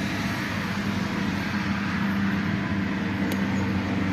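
Tractor diesel engine idling steadily, with an even low hum.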